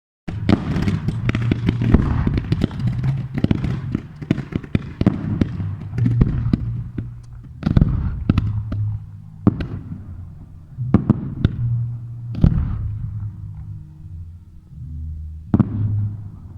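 Fireworks going off: a dense run of sharp bangs for the first several seconds, then single bangs spaced a second or more apart, each trailing into a low rumble.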